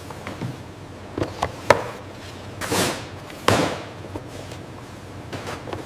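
Handling noises: a few sharp taps and knocks, with two brief swishes in the middle.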